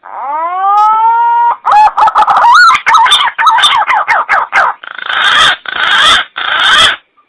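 Green pigeon (punai) song used as a hunting lure call. It opens with a rising whistle, runs into a quick series of warbling notes that slide up and down, and ends in three harsh, rasping notes.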